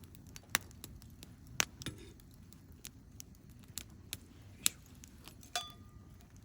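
Wood campfire crackling, with sharp irregular pops scattered through. One pop about five and a half seconds in is followed by a short ringing tone.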